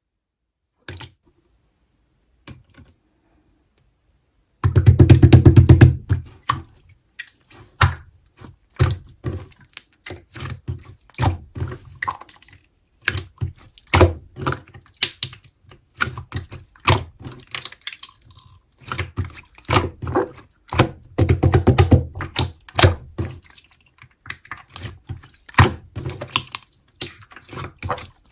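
Clear slime being squeezed and poked by hand, giving rapid wet clicks and pops. It starts a few seconds in, with dense runs of clicks near the start and again about two-thirds of the way through.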